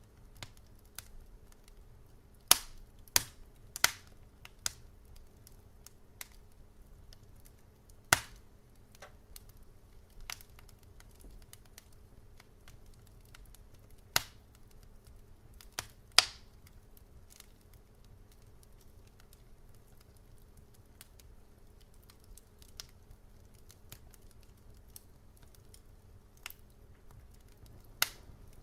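Wood fire crackling: scattered sharp pops, a few loud ones several seconds apart with many faint ticks between, over a low steady hum.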